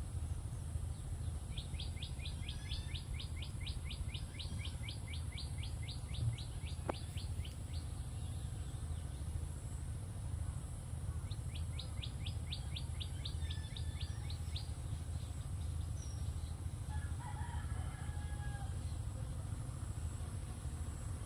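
A bird calling in two long runs of rapid, evenly repeated high notes, about six or seven a second, the first lasting some six seconds and the second about three, over a steady low rumble.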